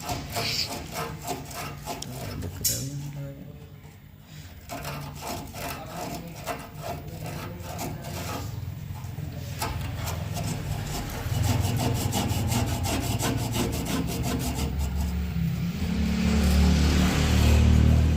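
Rapid back-and-forth scraping of a hand tool such as a file or abrasive. A low hum builds near the end.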